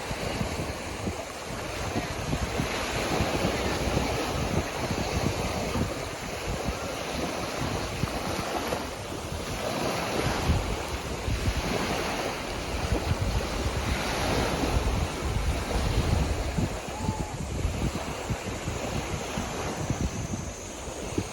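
Sea waves breaking and washing onto a beach, surging and easing every few seconds, with wind buffeting the microphone.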